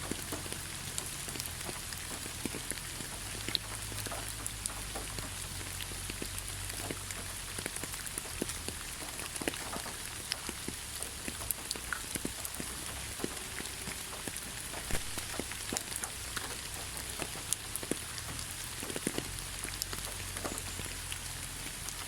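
Steady rain falling in a pine forest: a continuous hiss with many separate drop hits scattered through it.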